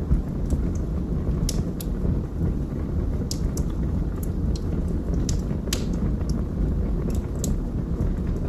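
Wood fire burning in a fireplace: a steady low rumble of flames with about a dozen sharp crackles and pops at irregular intervals.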